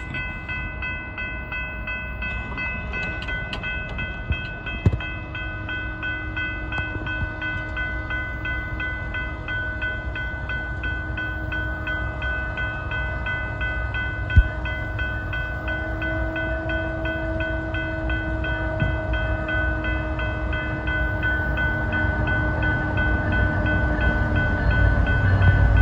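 BNSF coal train led by a GE diesel locomotive approaching and growing steadily louder, its horn sounding a held chord that slips slightly lower in pitch near the end as the locomotive draws close. Two brief knocks stand out, about 5 and 14 seconds in.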